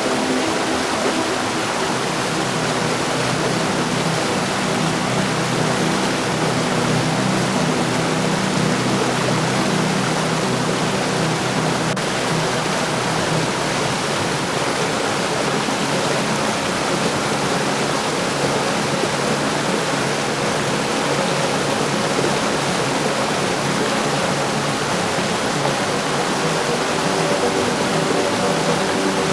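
Heavy rain falling steadily, a dense, even hiss with no thunder. A few faint low steady tones fade out about a second in and come back near the end.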